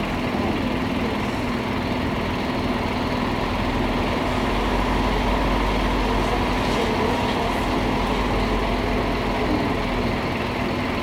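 Scania K310IA bus engine running steadily, with a held tone over its rumble; the low rumble grows stronger from about four seconds in and eases again near the end.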